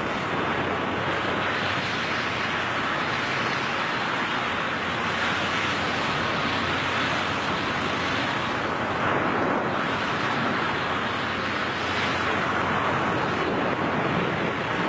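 Steady rush of air over a microphone during skydiving freefall, an even roar of wind noise.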